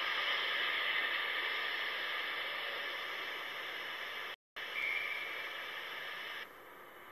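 A diesel multiple unit running past along the platform, heard as a steady hiss that slowly fades. The sound cuts out briefly about four and a half seconds in, then drops sharply in level about two seconds later.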